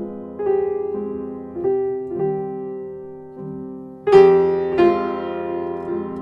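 Background piano music: slow, soft notes and chords that ring and fade, with a louder chord about four seconds in.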